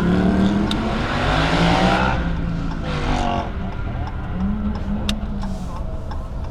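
Car engines revving at a car meet, the pitch rising and falling, with a rush of noise about one to two seconds in.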